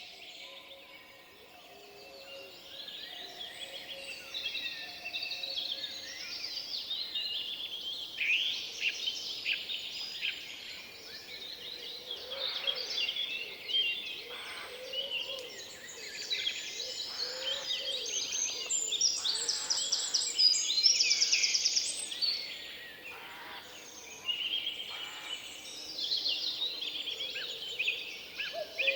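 Several songbirds singing at once in a forest: a dense chorus of overlapping chirps and trills, busiest about two-thirds of the way through.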